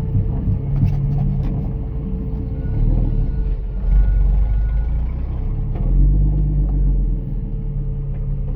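Jeep engine running with the exhaust removed, a loud low rumble that rises in level a few times.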